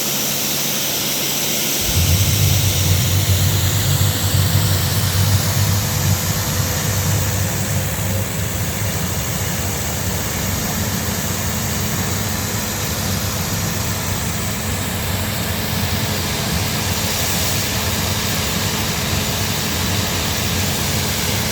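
Compact industrial hot-and-cold pressure washer running with its trigger held: the 1450 RPM electric motor and pump run steadily while the high-pressure jet hisses from the lance. A deeper low hum joins about two seconds in and stays.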